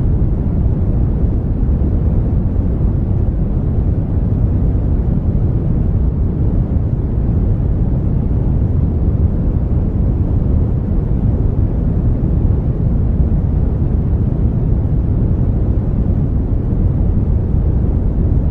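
Brown noise: a steady, even rumbling hiss, strongest in the lows and fading toward the highs, unchanging throughout.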